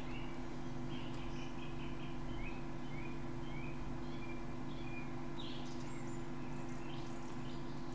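Small birds chirping and twittering in short, quick notes, some sliding up or down in pitch, every second or so, over a steady low hum.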